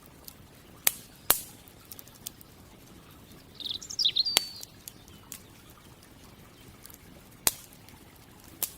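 Wood campfire crackling, with a few sharp pops scattered through it, and a songbird giving one short, quick chirping phrase near the middle.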